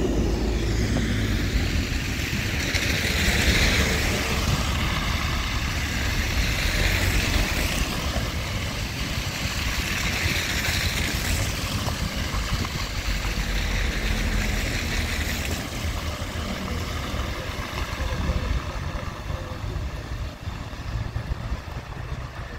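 Pragoimex EVO 2 tram pulling away from a stop, running steadily with its rumble and hiss swelling a few times, then fading over the last several seconds as it moves off.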